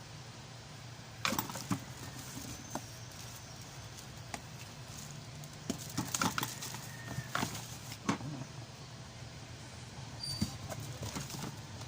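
Scattered clicks and knocks of pressure-washer parts and packaging being handled, in small clusters, over a steady low hum.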